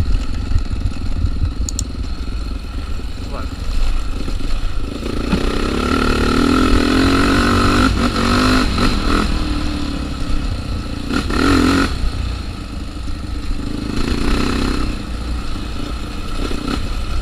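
Off-road motorcycle engine running on a rough trail, its note swelling in a few stretches as the throttle is opened, under heavy wind buffeting on the microphone.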